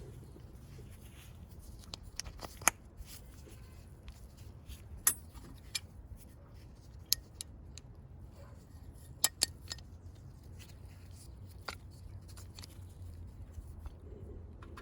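Scattered sharp metallic clicks and clinks, a few at a time at irregular moments, over a low steady hum.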